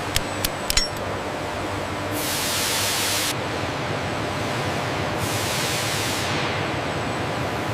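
Steady factory machinery noise with a few sharp clicks in the first second, then two hissing bursts, each a second or so long, as of a spray or air release.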